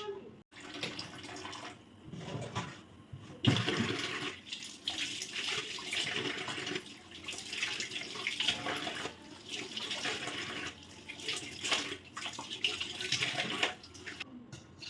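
Water running and splashing unevenly, as from a tap into a sink.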